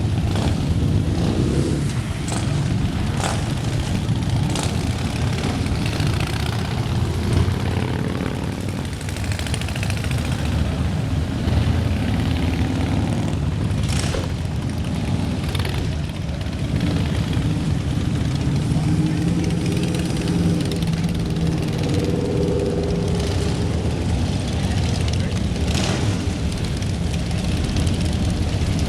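A group of motorcycles riding past, many engines running together in a steady, continuous din, with engine notes rising and falling in pitch in the middle stretch.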